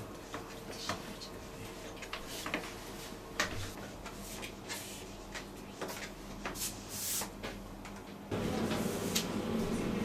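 Scattered light knocks and clicks of hands-on kitchen work, with a louder steady room background from about eight seconds in.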